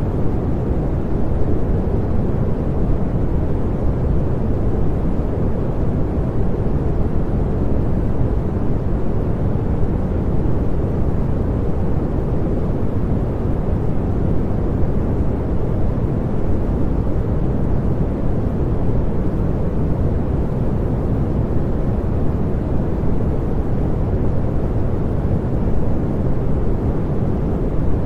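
Continuous synthetic pink noise: a steady, unchanging rush with most of its weight in the low range, fading toward the highs.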